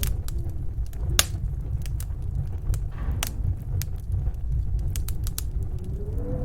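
Wood fire crackling, with sharp, irregular pops over a steady low rumble of snowstorm wind.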